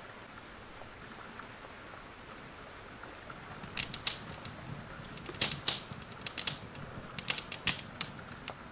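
Wood fire crackling in a fireplace, with sharp irregular pops that come thicker from about halfway through, over a steady hiss of rain.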